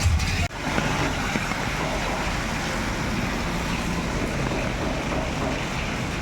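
Steady rushing noise of heavy rain and water on a flooded street, after a brief break about half a second in.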